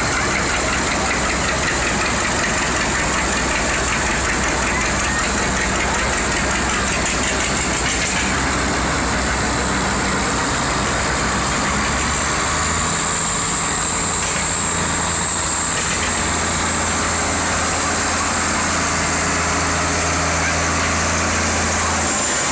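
Farm tractor engines running steadily as tractors go by; the low engine note changes to a different one about halfway through.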